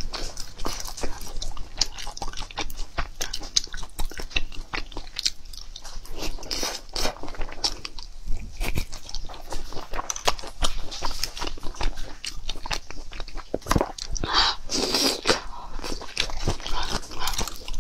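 Close-miked eating sounds: a person biting meat off barbecue skewers and chewing it, a dense run of short mouth clicks.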